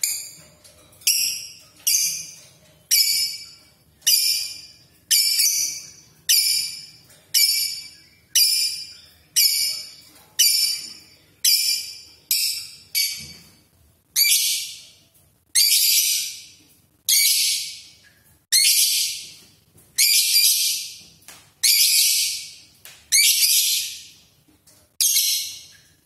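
A small bird giving one loud, shrill, high call over and over, about once a second. About halfway through, the calls turn longer and harsher and come a little more slowly.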